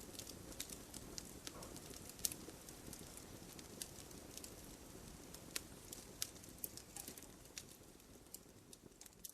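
Wood campfire burning: irregular sharp crackles and pops over a soft low rush of the flames, growing fainter near the end.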